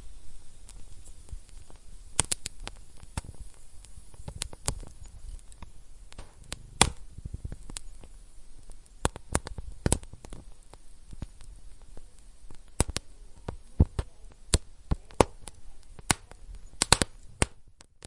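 Wood fire crackling in a fireplace: irregular sharp pops and snaps of burning wood over a steady low rustle of flames.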